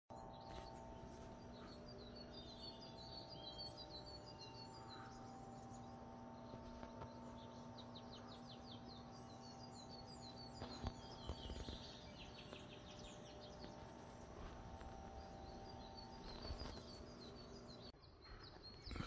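Several songbirds chirping and trilling in mixed pine forest, in repeated short high phrases, faint over a low steady hum that stops near the end.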